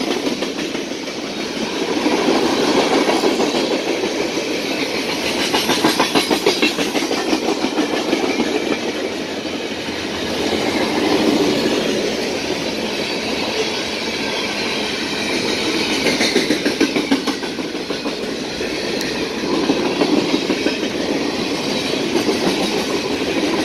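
Freight train of tank cars and covered hoppers rolling past: a steady rumble of steel wheels on rail that swells and eases every few seconds, with runs of clickety-clack as wheels cross rail joints.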